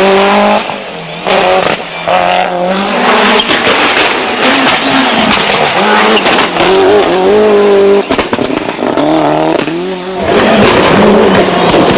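Toyota Celica GT-Four ST185's turbocharged 2.0-litre four-cylinder engine revved in repeated blips, the pitch rising and falling each time. Between the blips come crackles and bangs from its anti-lag (misfiring) system, which keeps the turbo spooled.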